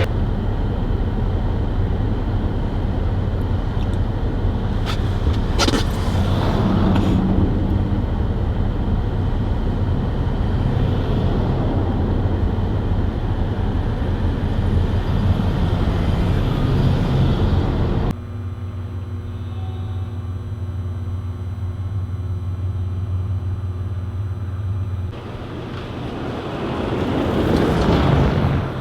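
A vehicle driving through snowy streets: a steady low engine hum and tyre and road noise. The sound drops suddenly about two thirds of the way in and again a little later, then swells louder near the end.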